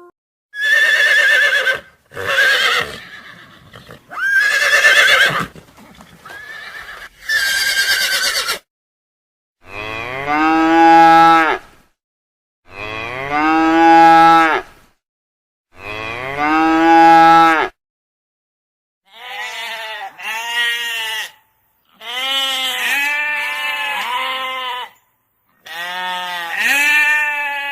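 Farm animals calling: a string of loud, drawn-out pitched calls with short pauses between them. The middle calls are long, rising-and-falling cries of about two seconds each, and the last ones waver up and down several times.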